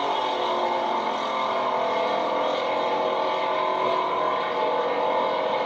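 A drag race car's engine running steadily, with a slight waver in pitch.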